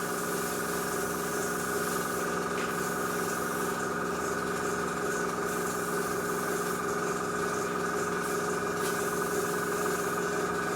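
Small airbrush compressor running with a steady hum, under the hiss of an airbrush spraying in short passes that stop and start several times.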